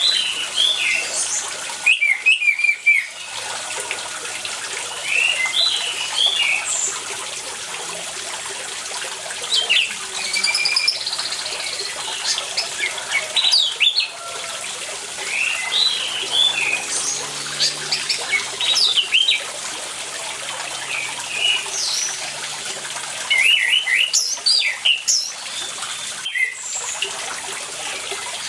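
Orange-headed thrush singing in short, varied phrases, one every second or two, over the steady rush of running water.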